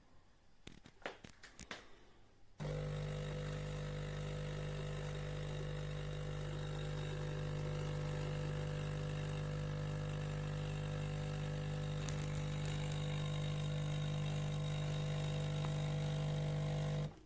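De'Longhi Dinamica Plus bean-to-cup espresso machine working through a cappuccino: a few soft clicks, then its pump starts up about two and a half seconds in. The pump hums steadily and stops suddenly near the end.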